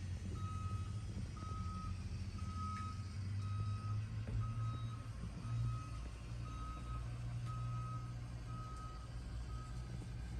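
A vehicle's reversing alarm beeping, a single steady tone about once a second, over a low, steady engine rumble.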